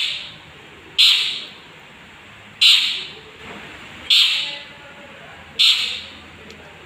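Young long-tailed shrike (cendet) giving harsh, scratchy calls, four in a row about a second and a half apart. Each call starts sharply and trails off.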